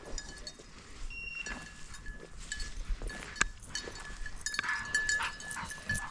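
Small bell on a running bird dog's collar jingling in irregular short rings, with brush rustling and snapping underfoot.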